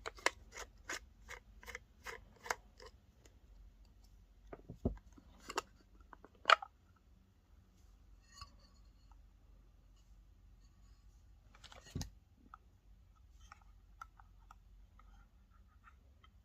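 Hand-handling noises on a small object: a quick run of small clicks, about three a second, then scattered taps, a sharp click and two dull thumps.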